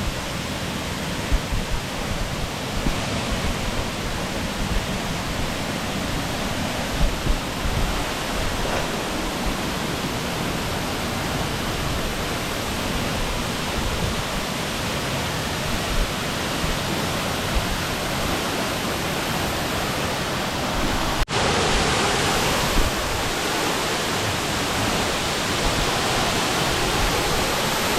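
Steady rushing of a waterfall, an even wash of falling water. About three-quarters through it cuts off for an instant and resumes slightly brighter.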